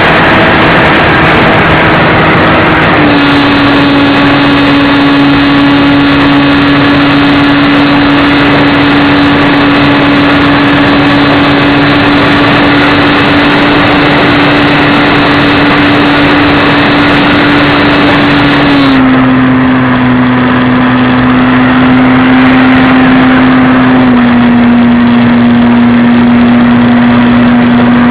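Radio-controlled model airplane's engine running steadily and loudly in flight, over a rush of air. Its pitch drops a little three times: about three seconds in, about two-thirds of the way through, and again near the end, as the throttle is eased.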